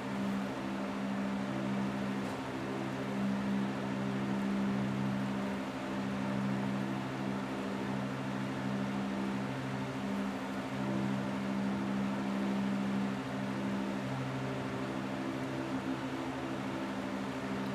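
Steady rain hiss over a low droning hum of several tones that swell and fade every second or two.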